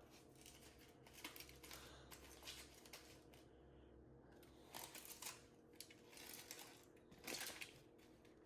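Faint handling noises as a foil-wrapped sandwich is opened up: scattered soft clicks and rustles, a little louder about five seconds in and again near the end.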